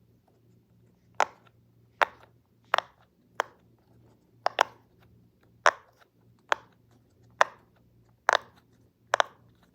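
Silicone pop-it fidget toy, its bubbles pressed one at a time, giving a dozen or so sharp pops about one a second.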